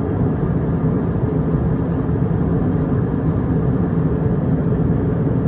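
Steady cabin noise of an Airbus A320 airliner in cruise: a low, even drone of engines and rushing air heard from inside the cabin.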